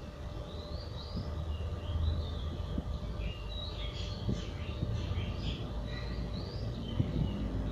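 Small birds chirping in quick, short rising and falling notes, busiest in the middle, over a steady low rumble with a few faint knocks.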